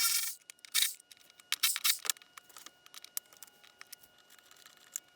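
Socket ratchet clicking in a short burst at the start and again just before a second in, backing out 10mm exhaust bolts, followed by scattered light clicks and scrapes of metal parts and tools being handled.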